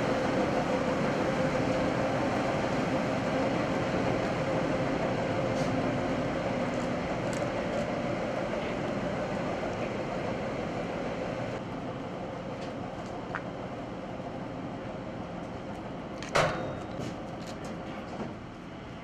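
Goat milking machine running: a steady mechanical hum with one constant tone through it, and a single sharp clack near the end.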